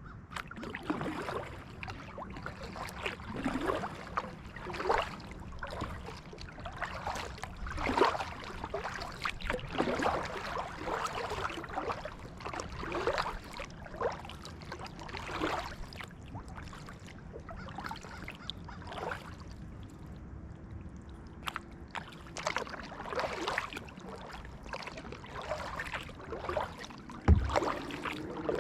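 Kayak paddle strokes: the blades dip and splash into the water about once a second, with dripping between strokes. The strokes thin out for a few seconds past the middle. A single low knock comes near the end.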